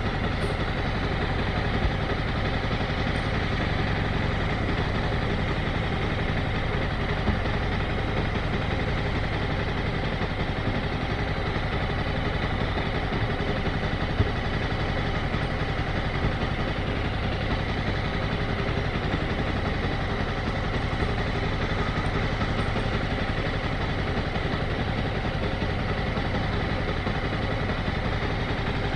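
Motorcycle engine running steadily at an even, low speed close to idle, with no revving.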